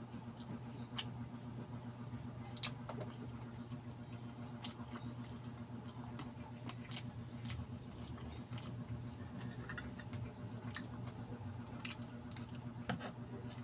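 Close-up wet chewing of balut, with scattered mouth clicks and smacks over a steady low hum; a sharper click comes near the end.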